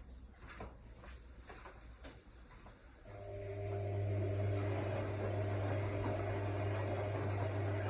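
AEG Lavamat L62850L washing machine: a few faint clicks, then about three seconds in a motor or pump starts with a steady hum and the sound of water, rising within a second and then holding.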